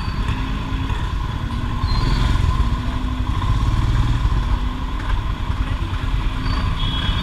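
Royal Enfield Himalayan's single-cylinder engine running steadily while riding slowly through traffic, with the noise of other vehicles around it.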